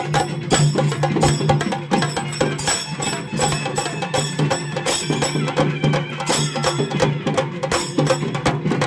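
Chenda drum ensemble playing a fast, dense rhythm of stick strokes.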